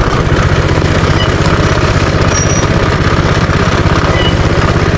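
Minibike's small engine running steadily, its firing pulses coming fast and even.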